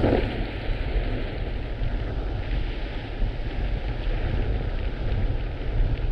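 Strong wind buffeting the microphone: a loud, gusting low rumble with a hiss of rushing air over it.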